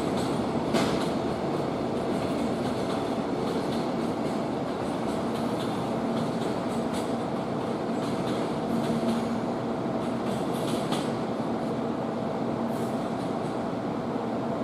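A long container freight train's flat wagons rolling past on the rails: a steady rumble of wheels, with sharp clacks now and then as they cross the points and a faint held wheel whine.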